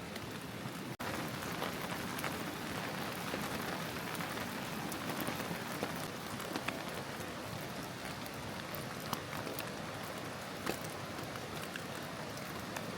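Steady rain falling, with separate drops landing sharply here and there. The sound cuts out for an instant about a second in.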